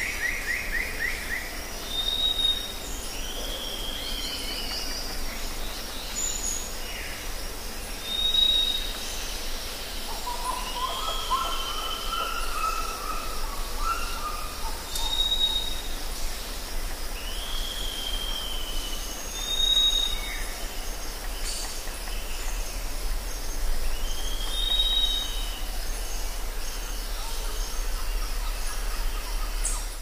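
Birds calling over a steady hiss and low hum. A short high whistle followed by a falling chirp repeats every five or six seconds, and a lower wavering call comes in about ten seconds in.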